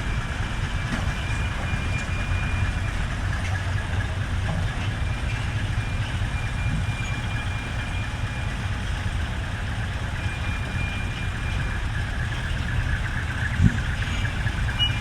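Large truck engine idling with a steady low rumble, with a single short knock near the end.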